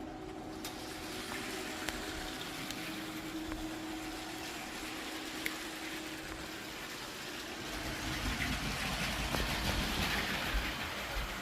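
Lego train running on plastic track: a steady small electric motor whine with rolling wheel noise and occasional clicks, growing louder about eight seconds in.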